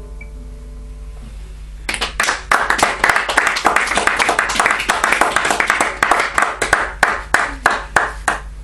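Last guitar chord fading out, then a small audience applauding, starting about two seconds in and thinning to a few separate claps near the end.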